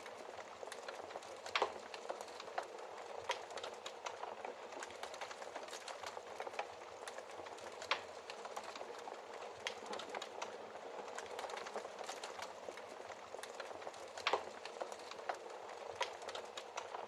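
Wood fire crackling in a fireplace: a steady soft hiss with many small snaps, and a few louder pops, once near the start, once midway and once near the end.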